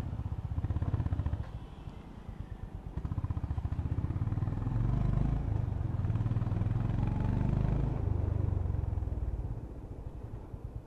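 Honda H'ness CB350's single-cylinder engine running under way, its exhaust pulsing steadily. It picks up throttle about three seconds in and eases off near the end.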